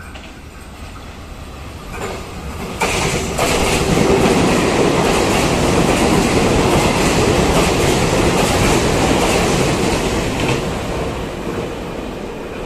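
Taiwan Railway EMU3000 Tze-Chiang express electric multiple unit passing by. The rush of its wheels on the rails rises sharply about three seconds in, stays loud for several seconds, then fades near the end.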